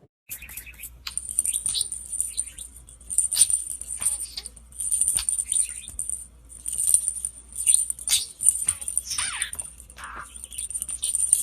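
Small pet bird chirping in short calls, some sliding down in pitch, among quick rattling clicks, over a steady high-pitched whine.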